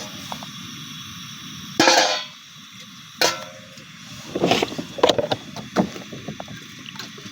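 Cookware being handled, clattering and knocking: a loud clatter about two seconds in, another knock about a second later, then a run of smaller knocks.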